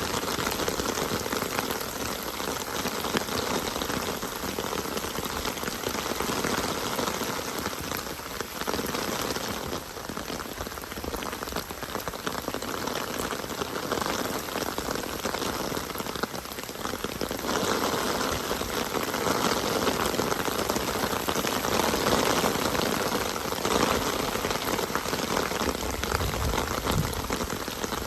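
Steady rainfall, an even hiss of many drops, dipping briefly twice and growing a little heavier past the middle.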